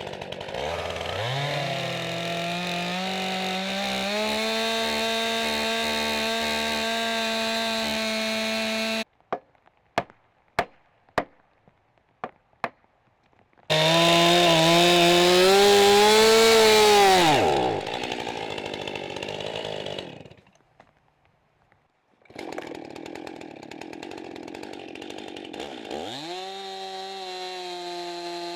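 Two-stroke chainsaw revving up and running at high speed, in several separate bursts; in one burst the pitch sags and falls away as the saw loads up and slows. Between bursts there is a short quiet stretch with a handful of sharp knocks.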